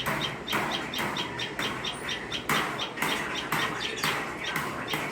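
Tailorbirds chirping: short high chirps repeated rapidly, several a second, with a louder burst of noise about once a second.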